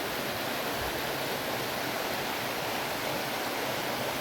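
Steady rush of a river's waterfall or rapids, an even noise with no breaks.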